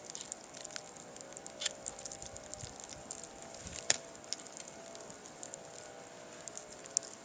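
Irregular sharp clicks and crackles of a frozen, icy stump and snow being worked at by hand, with a louder knock about four seconds in and another near the end, over a steady hiss.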